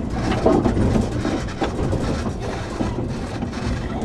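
Running noise heard from inside the passenger car of a JR 113 series (7700 subseries) electric train under way: a steady rumble from the wheels on the track, with a few short clacks.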